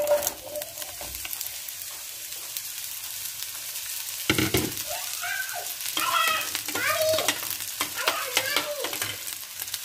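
Sliced mushrooms sizzling in hot oil in a frying pan, starting suddenly as they go into the pan, with a sharp knock about four seconds in.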